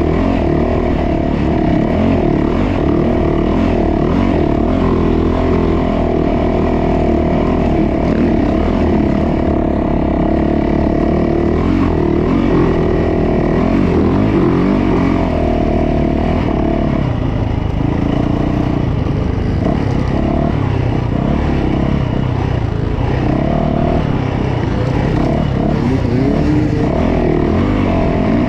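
Yamaha YZ450F dirt bike's 450 cc single-cylinder four-stroke engine running while being ridden, its pitch rising and falling as the throttle is opened and closed.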